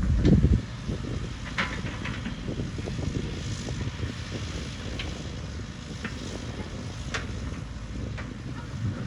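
Heavy diesel earthmoving machinery such as a bulldozer rumbling, with a louder surge in the first half-second and scattered short metallic clanks and knocks.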